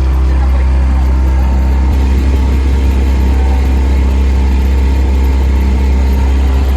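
An engine running loud and steady at close range, with a strong low hum.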